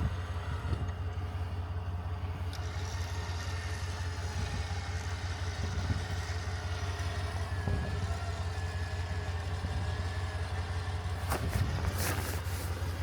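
A vehicle engine running steadily while a winch drags a stuck truck's front end back toward the road, with a faint wavering whine over it. A few sharp clicks come near the end.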